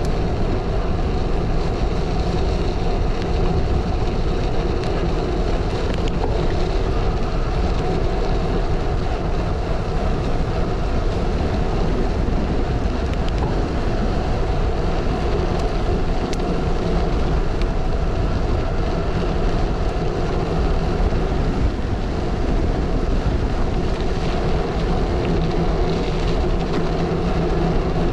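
Steady, loud wind rushing over the microphone with the rumble of tyres rolling on a dirt road, from a gravel bike being ridden hard.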